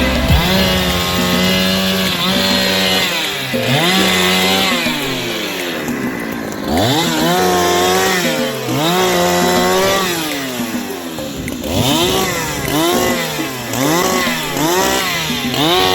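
Chainsaw running, its engine speed climbing and falling back over and over as the throttle is worked.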